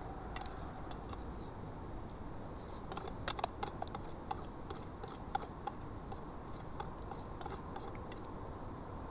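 Light, irregular clicks and clinks of small utensils being handled, thickest about three to five seconds in, over a steady low hiss.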